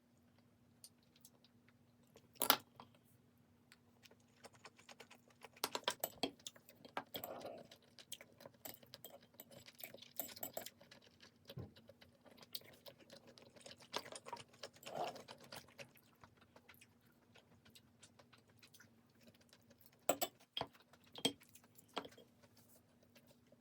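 Scattered small clicks, taps and light clinks of objects being handled, a few of them sharper, over a faint steady hum.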